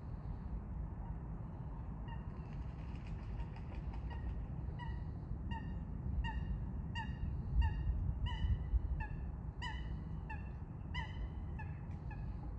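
Eurasian coot giving a series of short, nasal, honking calls, about one and a half a second, faint at first and louder in the second half, over a steady low rumble.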